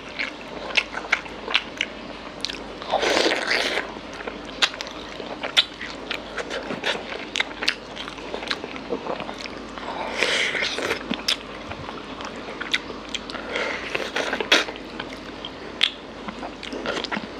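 Close-miked chewing of mutton curry on the bone: wet mouth clicks and smacks throughout, with a few longer, louder wet mouth noises about three seconds in, about ten seconds in, and near the end.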